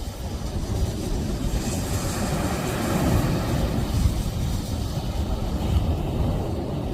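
Wind buffeting the microphone in a low, uneven rumble, with the rush of surf swelling from about two seconds in and easing off by about four.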